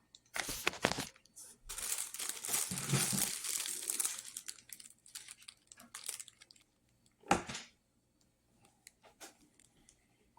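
Crinkling and rustling noise in bursts through the first four seconds or so, then one sharp knock about seven seconds in, followed by faint scattered ticks.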